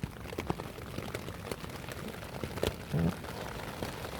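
Heavy rain and large drops from overhanging trees drumming on a tent's fly sheet, an irregular patter of sharp taps over a steady hiss. A brief low hum or grunt sounds about three seconds in.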